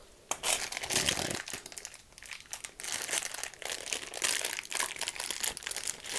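Plastic packaging crinkling and crackling as it is handled and pulled open by hand.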